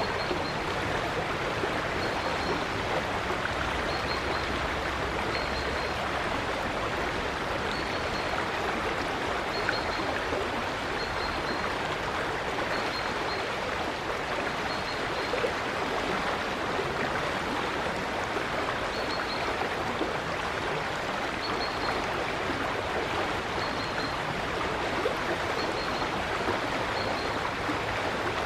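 River water flowing steadily with an even rushing sound. A bird gives short, faint, high chirps every second or two over it.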